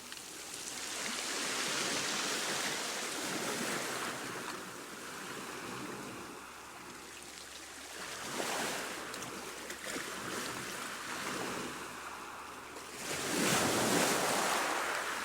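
Ocean surf: waves breaking and washing in, the rush of water swelling and fading three times, the loudest surge near the end.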